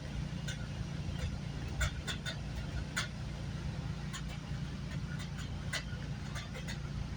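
Steady low rumble of a moving GO Transit commuter train heard from inside the coach, with irregular clicks and knocks from the wheels and car body.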